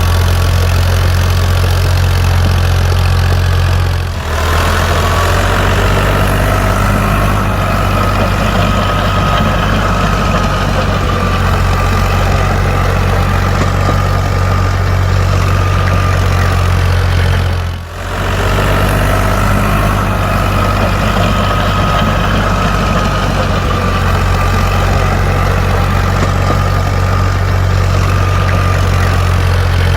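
Mini tractor running steadily with a low engine hum. It drops out briefly twice, about four seconds in and again just past the middle, and each time picks up again with a faint rising whine.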